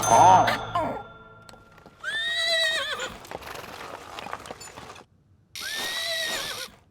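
Two horse whinnies, each about a second long, rising, holding and falling away with a wavering end, a few seconds apart, after a loud brief sound at the start.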